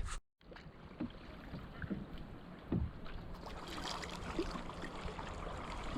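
Canoe being paddled on a river: a quiet wash of water from the paddle strokes, with a few small knocks, the clearest about three seconds in.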